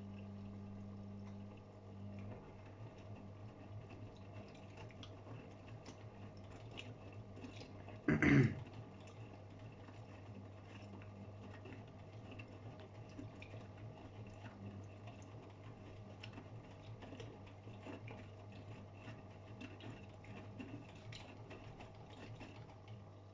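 Matura Sigma 9260 washing machine running: a steady motor hum cuts out about a second and a half in, leaving light irregular ticking and sloshing, with one brief loud noise about eight seconds in.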